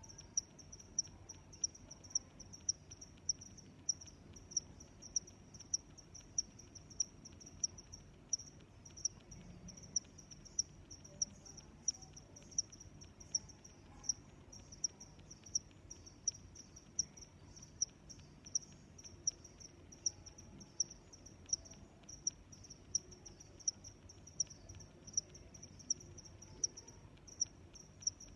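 Cricket chirping steadily, short high-pitched chirps repeating evenly at a little under two a second, over a faint low background hum.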